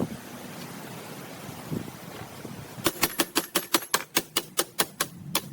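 A fast, even run of sharp mechanical clicks, about six a second, starting about three seconds in and lasting about two and a half seconds.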